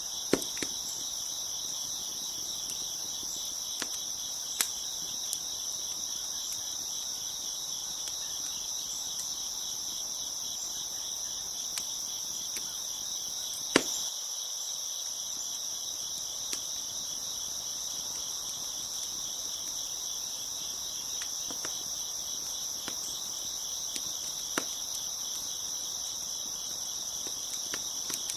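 Crickets chirping in a steady, dense high chorus, with a few scattered sharp pops from a crackling wood fire, the loudest about halfway through.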